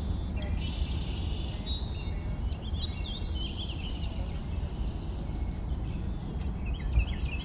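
Several small birds chirping and singing in quick, gliding notes, over a steady low rumble of outdoor noise.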